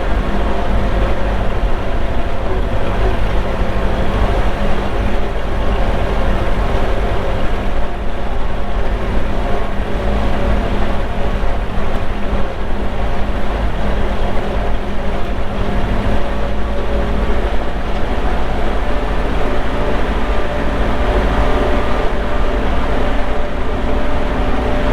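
Antique farm tractor engine running at a steady speed while driving along.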